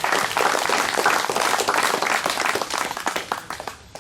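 A small crowd applauding, many hands clapping at once, dying away near the end.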